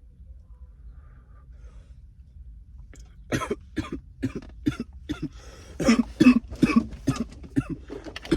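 A person coughing hard in a long, irregular run of rough coughs that starts about three seconds in, over a low steady hum.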